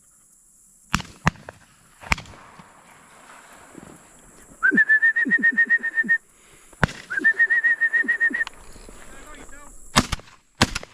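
Two high trilled whistles, each lasting about a second and a half, fluttering about ten times a second. Sharp cracks come before, between and after them; the loudest come near the end and fit shotgun shots at doves.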